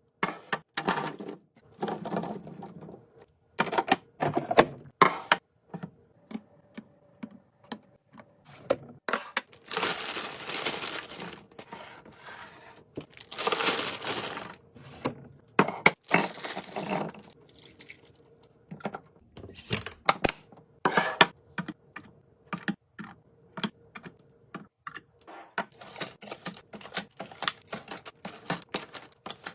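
Fridge restocking: plastic and glass containers and packaging handled and set down, a run of sharp clicks and taps with a few longer stretches of rustling or scraping of a second or two.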